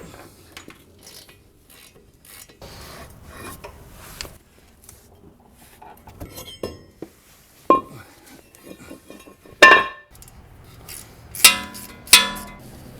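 Hand tools and steel parts of a truck's front wheel hub clinking and scraping, with several sharp metallic clanks that ring briefly. The loudest comes about two-thirds of the way in, and two more follow near the end.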